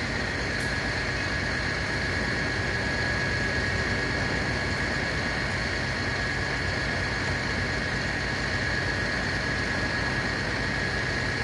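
A fire truck's engine running steadily: a constant low rumble with a steady high whine over it.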